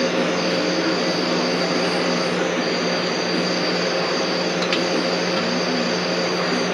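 Steady machine drone: an even, loud rushing noise with a constant hum and a thin high whine, unchanging throughout, with a faint click near the end.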